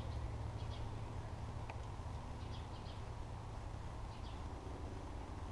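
Faint, short, high bird chirps, a few at a time, scattered over a steady low rumble.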